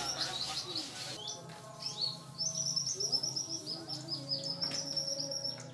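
Small birds chirping, with a fast run of short high chirps through the second half.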